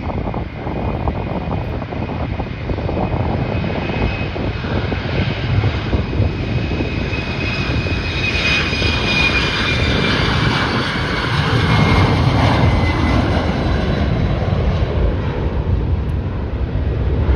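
Airliner passing close by: a high engine whine that slides slightly down in pitch as it goes past, loudest about halfway through, followed by a swelling low rumble, with wind buffeting the microphone.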